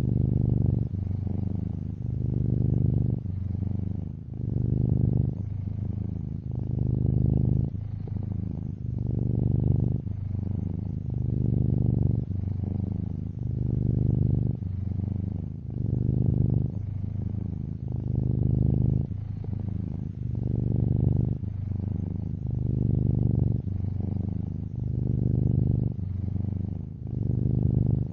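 Domestic cat purring steadily close up, the purr swelling and easing about every two seconds as the cat breathes in and out.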